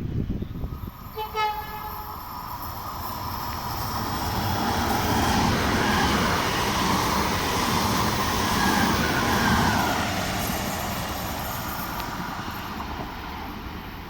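Regional train giving a short horn blast about a second in, then passing through: its running noise swells to a peak midway and fades away.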